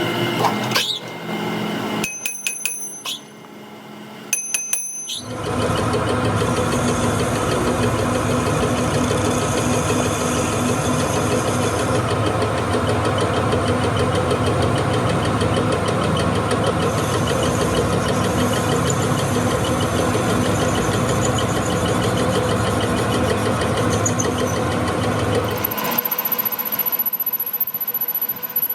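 A few sharp metal clinks, then a workshop machine starts about five seconds in and runs steadily, cutting out near the end and leaving a thin high whine.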